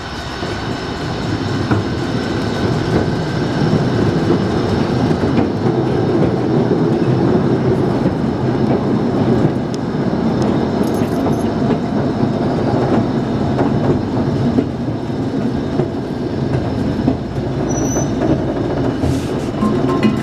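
Miniature train rolling along its track, heard from an open passenger car: a steady rumble and clatter of wheels and cars, growing louder over the first few seconds as it pulls away.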